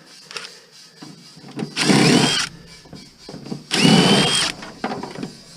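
Power drill/driver running in two short bursts, each spinning up with a rising whine that then holds steady, as screws are driven out while an appliance is taken apart for scrap.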